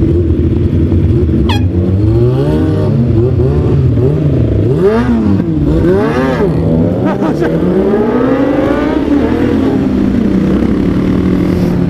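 Several 600cc sport motorcycles revving and accelerating hard from a standing start, their engine pitch climbing and dropping again and again as they shift up through the gears, with several engines overlapping; near the end one engine settles into a steady note.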